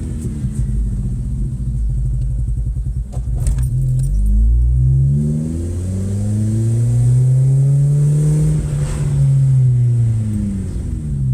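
Ford Focus Mk2.5 engine under full throttle while driving. It stutters and misfires, and its revs sag almost to a stall about four to five seconds in before climbing, falling and climbing again. This is a misfire logged with a crankshaft position sensor fault code (P0336).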